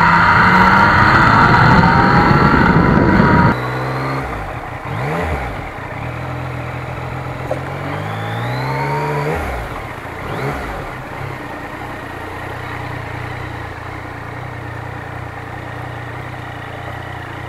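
2020 Yamaha MT-09's three-cylinder engine under way with loud wind rush, which drops off suddenly about three and a half seconds in as the bike slows. The engine pitch then falls and rises a few times before settling into a steady low running note.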